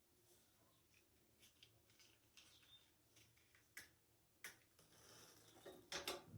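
Faint, scattered clicks and taps of kitchen handling, with a few sharper knocks in the second half and a brief soft rustling hiss just before the loudest taps near the end.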